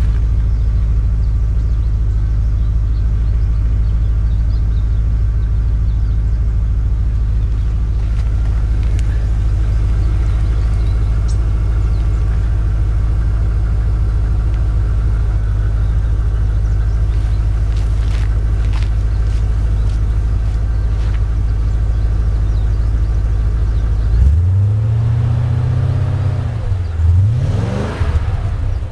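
BMW E39 M5's 4.9-litre S62 V8 idling steadily while warming up after a cold start, then revved a few times in quick rises and falls near the end.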